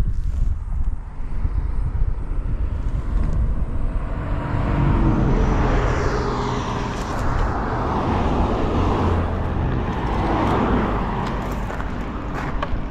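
Motor vehicle noise: a steady low rumble with a rushing tyre-and-wind sound that swells and eases twice.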